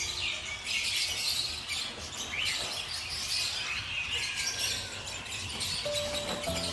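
Many small birds chirping and calling at once, a dense, busy chorus of short high chirps over outdoor background noise.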